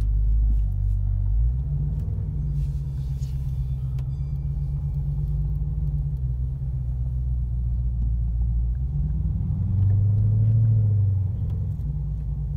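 Dodge Charger Scat Pack's 6.4-litre HEMI V8 driving, a steady low drone heard inside the cabin. The engine note shifts about a second and a half in and swells louder for about a second around ten seconds in. There is no clanking or clunking from the driveline, its rear axle shaft freshly replaced.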